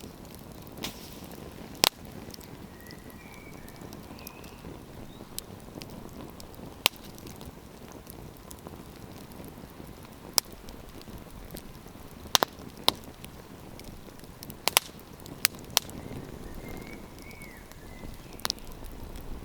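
Wood campfire crackling: a steady low hiss of burning wood, with about nine sharp pops scattered through it, several coming close together in the middle stretch.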